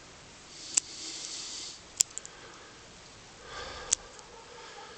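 Three sharp, short clicks spaced a little over a second apart, the middle one followed by two faint ticks, with soft breathing through the nose between them.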